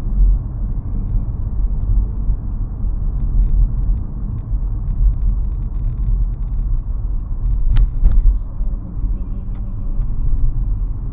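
Steady low road and engine rumble of a 2017 Nissan Rogue SUV driving on the highway, with one sharp click about eight seconds in.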